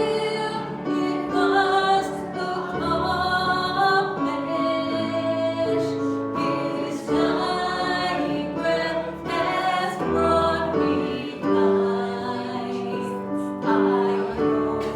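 Congregational worship song: voices singing a slow hymn with instrumental accompaniment and a steady bass, here between sung lines.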